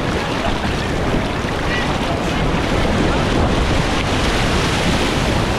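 Sea surf washing in steadily, mixed with wind buffeting the microphone.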